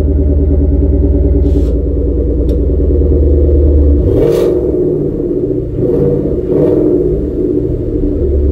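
Ford Mustang 6th-generation V8 exhaust, recorded close to the tailpipe, idling steadily on a still-cold engine. About four seconds in the engine is revved briefly, then twice more in quick succession about two seconds later, before it settles back to idle.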